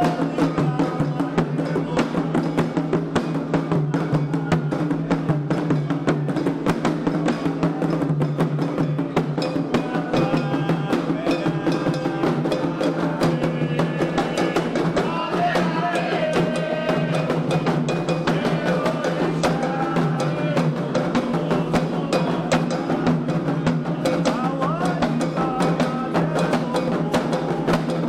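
Candomblé xirê music: atabaque hand drums and a struck bell or wood-like instrument keep a dense, driving beat, with voices chanting over it, plainest in the middle.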